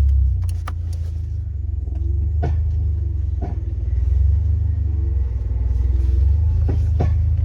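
Honda Accord Euro R (CL7) on the move with a steady low road rumble, and a handful of sharp knocks from the suspension scattered through it, two of them in quick pairs. The knocks are the abnormal suspension noise the owner is chasing.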